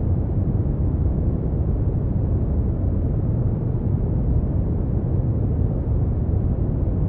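Brown noise: a steady, deep rushing hiss, strongest in the low bass and fading toward the highs, with no changes.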